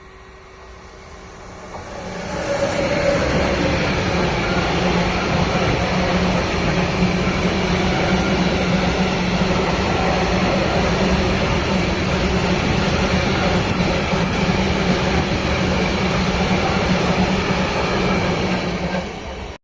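A train passing close by on the rails: the sound builds over a couple of seconds, then a steady loud rush of wheels on track with a low hum holds for about sixteen seconds before cutting off suddenly at the end.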